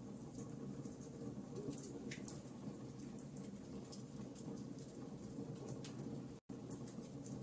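Wood fire burning in a fireplace, with a steady low rumble and frequent small, sharp crackles. The sound cuts out for an instant about six seconds in.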